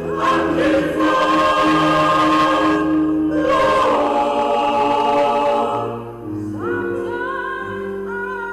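Small church choir singing held chords in harmony. About six seconds in the sound softens briefly and a new phrase begins, with a wavering upper voice over it.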